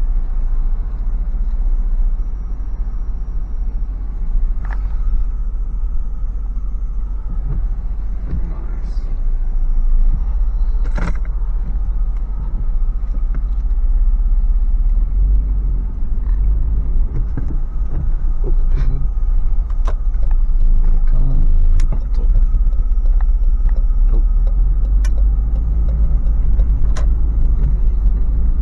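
Inside the cab of a Toyota 4Runner with a 4.0-litre V6, a steady low rumble of engine and road noise as the truck pulls away and drives. Sharp clicks and knocks come now and then.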